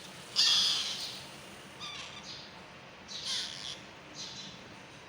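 Alexandrine parakeet chicks calling: four short, scratchy calls, the first and loudest about half a second in.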